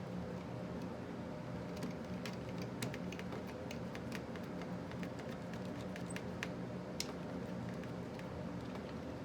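Irregular light clicks and taps of small tools and plastic parts being handled while a shock is remounted on an RC monster truck, over a steady low hum.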